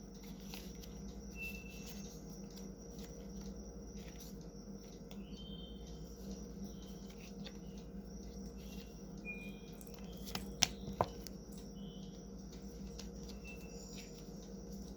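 Tarot cards being shuffled and handled: a light patter of small clicks, with two sharper clicks about ten and a half seconds in. A few brief high chirps and a steady low hum lie underneath.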